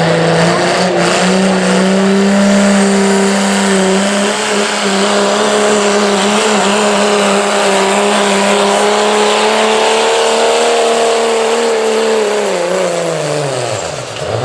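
Modified street diesel pickup engine held at high revs under full load while pulling a sled. The pitch holds steady for about twelve seconds, then the revs drop away near the end as the driver lets off.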